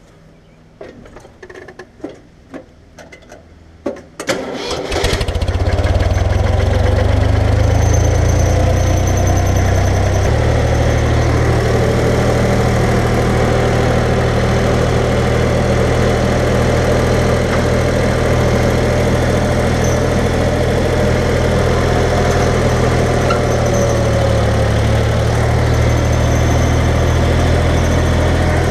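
A few clicks and knocks, then a tractor engine starts about four seconds in and settles into a steady idle.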